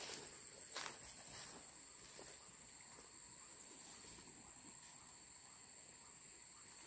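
Faint outdoor ambience dominated by a steady, high-pitched insect trill, with a couple of soft clicks in the first second or two.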